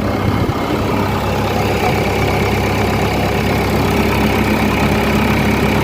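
JCB roller's diesel engine idling steadily, with a faint high whine that comes in about two seconds in.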